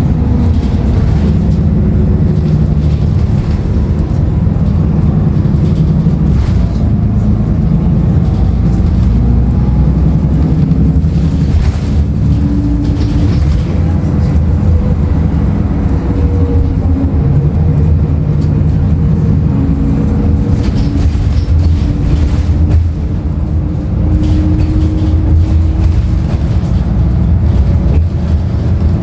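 Inside a moving 2016 Nova Bus LFS: its Cummins ISL9 diesel and ZF automatic transmission running under way, with a steady low rumble of engine and road noise. A faint whine drifts gently up and down in pitch with speed, and occasional rattles and clicks come from the cabin.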